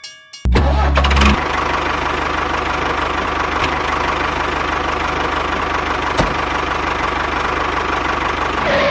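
A motor starts with a louder burst about half a second in, then runs steadily with a fast, even low pulse, and stops at the end.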